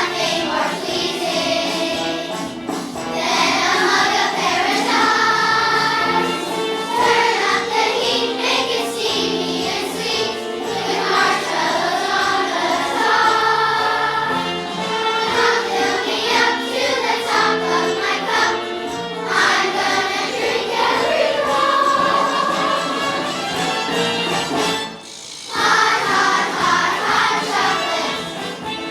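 Children's choir singing with instrumental accompaniment, with a short break in the singing about 25 seconds in.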